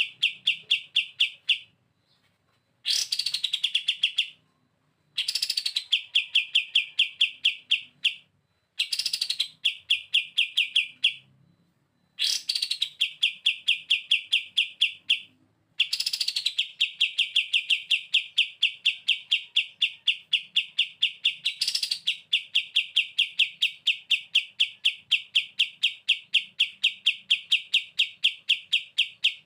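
A kapas tembak songbird singing its rapid, chattering 'bren' trill: fast runs of evenly repeated notes, about six or seven a second. Each run opens with a short, higher downward-sweeping note. Several runs of two to three seconds are split by brief pauses, then a long unbroken run begins about a third of the way in.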